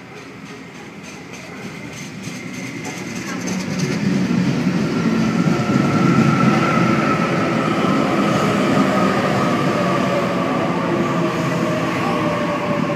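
Sydney Trains Waratah electric multiple-unit train pulling into the platform, growing louder over the first few seconds as it draws alongside. Wheel rumble carries a motor whine that slowly falls in pitch as the train slows.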